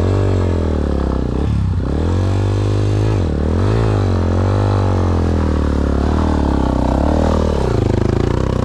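Yamaha XT250's single-cylinder four-stroke engine revving hard under load on a steep rocky climb, its pitch rising and dipping several times as the throttle is worked for traction.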